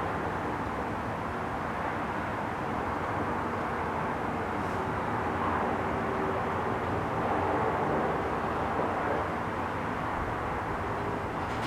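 Steady background rumble of distant traffic, with a faint low hum underneath.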